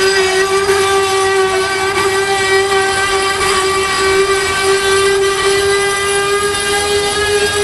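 Freight train boxcars rolling past slowly, with a steady squeal held on one pitch, typical of wheel flanges grinding against the rail, over the rumble of the cars.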